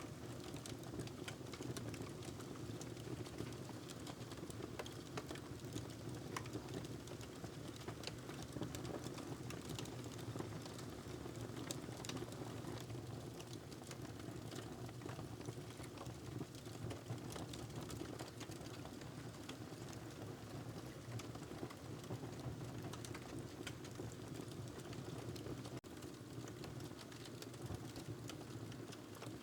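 Wood fire in a fireplace crackling: many small irregular pops and snaps over a steady low rumble.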